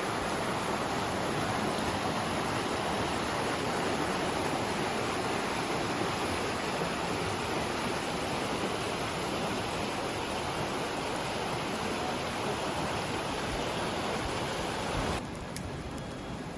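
Steady rush of a flowing stream, even and unbroken, which cuts off abruptly about fifteen seconds in, leaving a quieter background with a few faint clicks.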